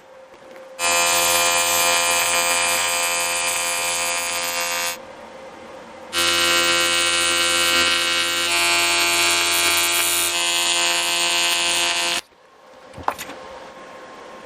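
Small electric motor, like that of a handheld power tool, running steadily in two bursts of about four and six seconds, the second slightly different in pitch, followed by a sharp click near the end.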